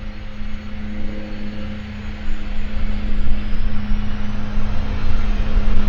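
Twin turbofan engines of a Cessna 550 Citation II business jet running with a steady hum, growing louder from about two seconds in, with a faint rising whine.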